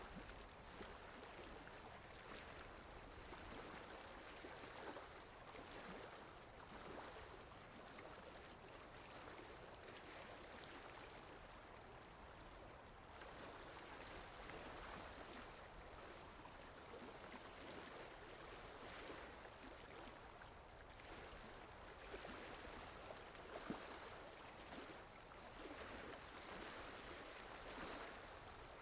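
Steady rain falling, a soft even patter with one sharper drip about two-thirds of the way through.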